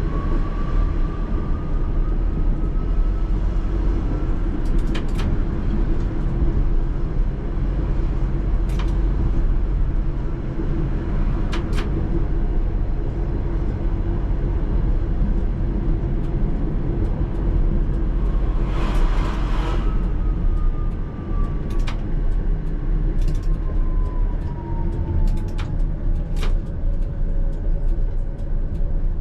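Coupled pair of ČKD Tatra T3R trams running, with steady rumble and scattered sharp clicks from the wheels over rail joints. A motor whine rises in pitch over the first few seconds and falls again in the second half as the tram slows. A short hiss comes about 19 seconds in.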